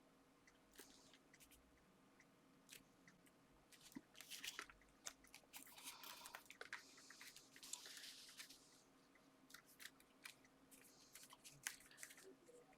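Faint handling of paper and card: light rustles and small ticks and clicks as pieces are moved and pressed into place, busiest from about four to nine seconds in.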